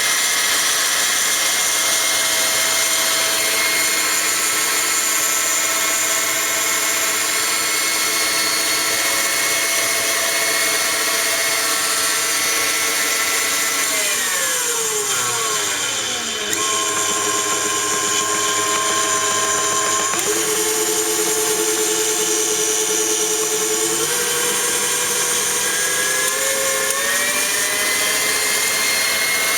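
KitchenAid Classic stand mixer's motor running with a steady whine. About halfway through, its pitch glides down as the speed drops, then steps up twice and glides back up near the end as the speed is raised.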